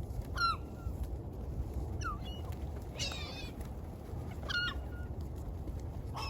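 Gulls calling: several short, separate cries about a second or so apart, some falling in pitch, over a steady low background noise.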